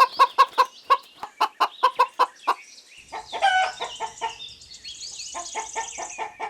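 Domestic hen clucking in quick runs of about five clucks a second. A longer call comes about three and a half seconds in, then the clucking picks up again.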